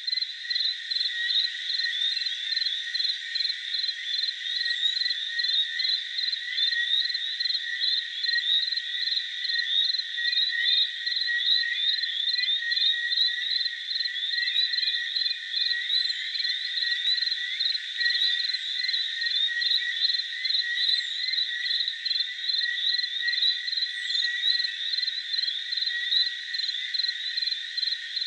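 Jungle ambience: a dense, continuous chorus of frogs and insects. An evenly pulsing trill runs over many overlapping chirps, with a few short, high, falling calls now and then.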